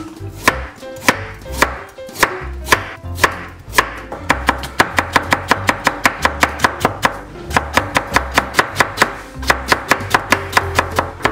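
Kitchen knife chopping on a bamboo cutting board, cutting carrot into thin strips. Scattered strikes at first, then from about four seconds in a fast, even run of about four to five cuts a second.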